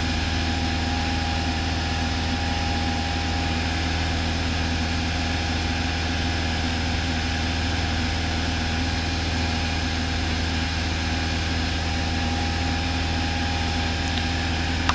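Cessna 172's four-cylinder piston engine and propeller running steadily, an even drone heard from inside the cabin.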